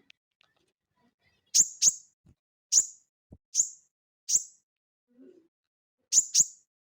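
Sogon (sogok ontong) bird calling: a series of about seven short, sharp, very high chips that fall quickly in pitch, some coming in quick pairs, spaced by brief gaps.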